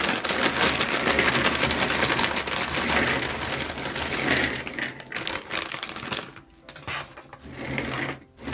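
Thick cardboard jigsaw puzzle pieces pouring out onto a table in a dense clatter of clicks, thinning after about five seconds to scattered clicks as the last pieces drop and settle.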